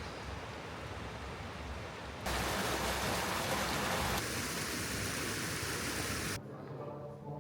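Steady rushing hiss of strong blizzard wind and snow on an action camera's microphone. It jumps louder about two seconds in and drops abruptly near the end.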